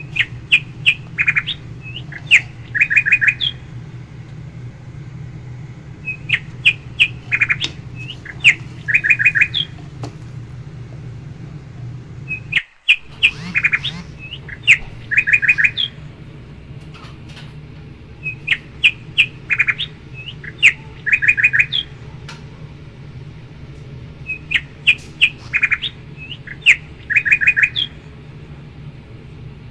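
Birdsong chirping: short high chirps and quick trills in one identical phrase that repeats about every six seconds over a steady low hum, like a looped background track.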